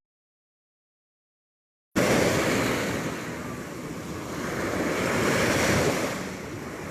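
Total silence for about two seconds, then sea waves cut in abruptly: surf washing in and out, one wash fading and a second swelling and easing back, with some wind on the microphone.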